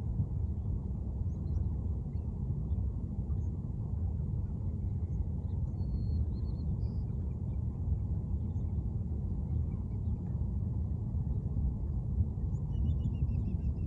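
Outdoor ambience: a steady low rumble, with faint bird chirps about six seconds in and again near the end.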